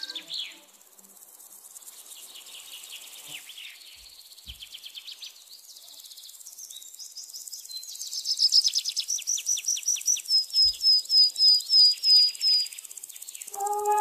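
Birds chirping and trilling: scattered calls, building about eight seconds in to a fast trill and then a run of about a dozen short, evenly spaced high notes, about four a second. Music comes back in near the end.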